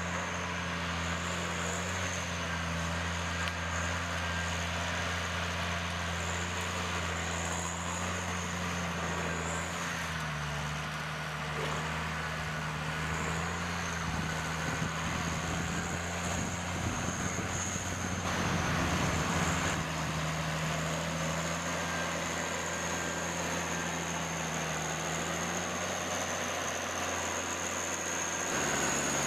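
An engine running steadily with a thin high whine over it, growing briefly rougher and louder about two thirds of the way through.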